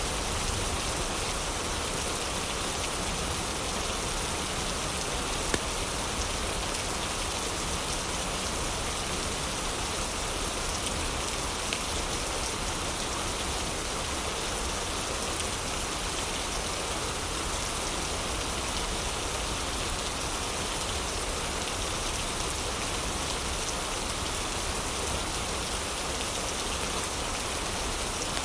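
Heavy rain falling steadily, with a few sharp pops from a crackling fireplace, the loudest about five and a half seconds in.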